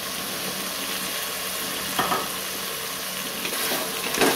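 Onions, tomatoes and potato cubes sizzling in oil in a pressure cooker pot, with a spoon knocking against the pot about two seconds in and again near the end as stirring begins.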